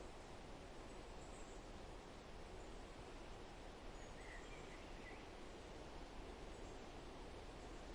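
Faint forest ambience: a steady low rushing background with a few faint, short, distant bird chirps about halfway through.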